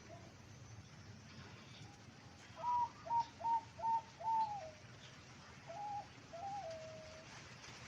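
An eight-month-old zebra dove cooing: a quick run of five loud, clipped coos, then two softer notes, the last trailing off into a lower, drawn-out tone. Its voice is of the middle-pitch class used in Thai dove-song contests.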